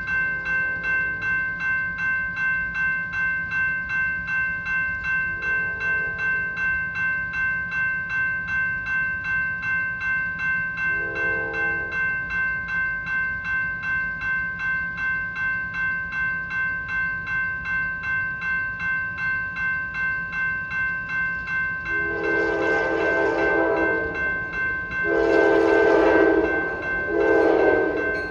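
Railroad crossing bell ringing steadily at about three dings a second. A train horn sounds faintly three times early on, then loudly near the end with two long blasts and a short one: the long-long-short-long grade crossing signal of an approaching train.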